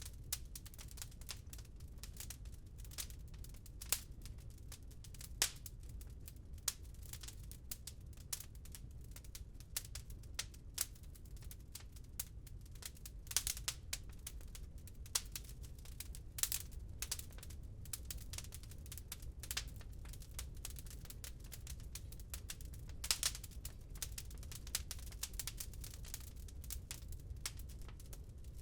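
Wood fire crackling in a fireplace: a dense, irregular run of small snaps and pops, with a few louder pops, over a steady low rumble.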